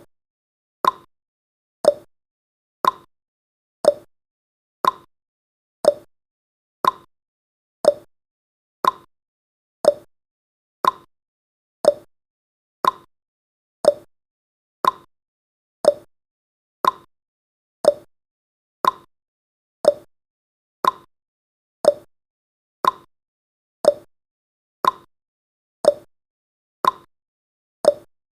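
Clock-tick sound effect of a countdown timer: one short, sharp tick every second, each dying away quickly.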